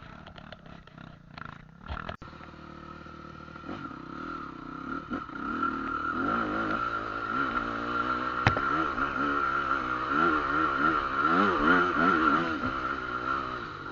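A motor vehicle's engine running, its pitch wavering up and down repeatedly and growing louder from about halfway through, with a few sharp clicks.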